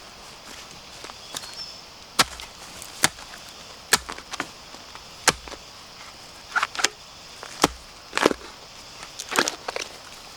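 Bamboo being cut with a blade: about ten sharp, irregular chops and cracks, a few with a short crunching tail.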